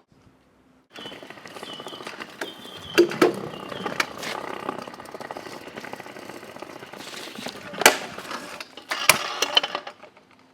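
Stunt scooter wheels rolling over concrete with a faint whine, broken by several sharp clacks and slaps of the deck landing and hitting the ground.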